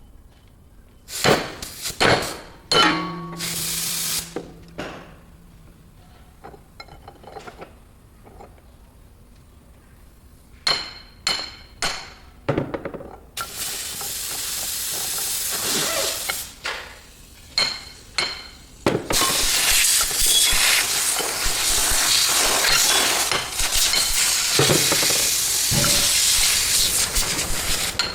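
Sharp metal clanks and hammer-like strikes, the first few leaving a brief metallic ring, in a run of knocks during hydraulic cylinder repair work. These are followed by a long, loud, steady hiss with more knocks through it from about two-thirds of the way in.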